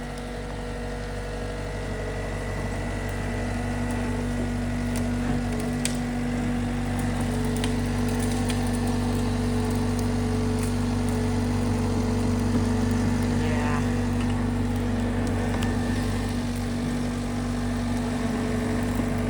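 John Deere 325G compact track loader's diesel engine running steadily, growing louder over the first several seconds as the machine works closer.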